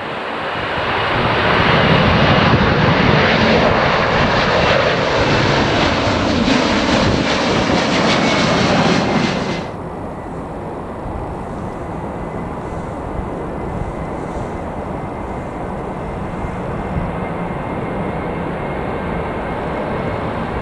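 Boeing 767-300 jet engines at takeoff power, loud and even. The sound cuts off abruptly about ten seconds in and gives way to the quieter, steady jet noise of a departing Boeing 757-200 with a faint high whine.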